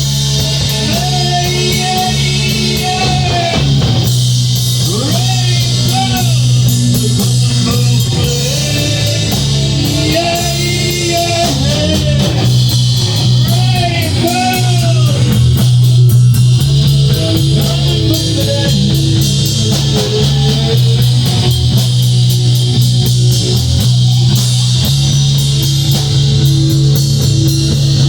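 Rock band playing: electric guitar, bass guitar and drum kit, with a lead line that bends up and down in pitch over a steady bass.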